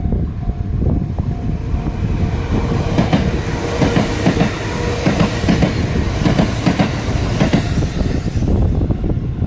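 Sanyo Electric Railway train passing close by, its wheels clacking over the rail joints in quick succession, with the rush of the passing cars at its fullest through the middle.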